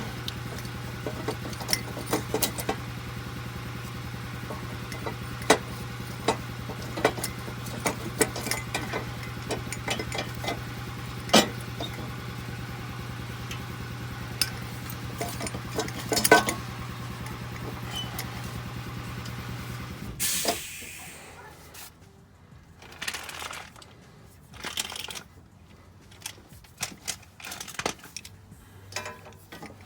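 Hand tools clicking and clinking on metal during exhaust-manifold work, over a steady machine hum. The hum stops about two-thirds of the way through with a short hiss, leaving only scattered metal clinks.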